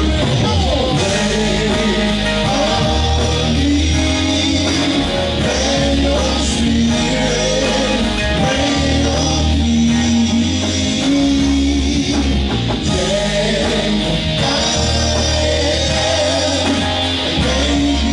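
Gospel song performed live by a band: a lead vocal over guitar and a bass line.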